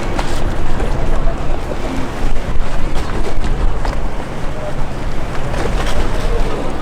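Wind buffeting the microphone: a heavy low rumble with crackles over steady outdoor noise.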